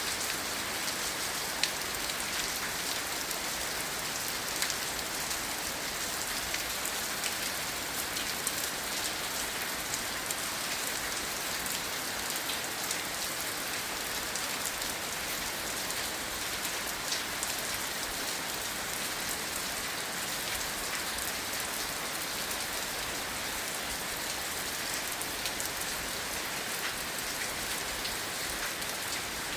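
Steady rain falling on grass, an even hiss dotted with the ticks of individual drops.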